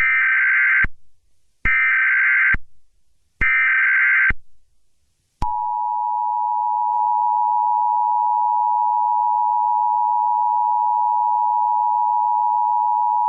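Emergency Alert System tones: three short bursts of SAME header data, each just under a second, then the two-tone attention signal held steady for about eight seconds, opening a new alert.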